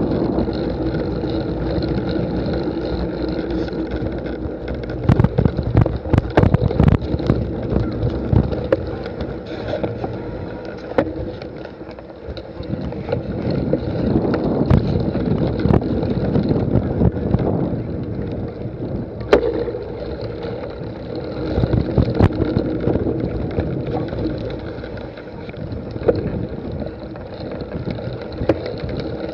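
Wind rushing over the microphone of a cyclocross bike being raced, with the rattles and knocks of the bike and tyres jolting over rough ground, heaviest in a cluster of sharp knocks a few seconds in.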